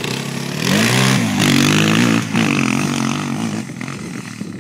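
Motorcycle engine revving up under hard throttle, its pitch climbing about a second in and running loudest for about a second, then wavering and easing off: a rider accelerating up a sand hill used as a jump.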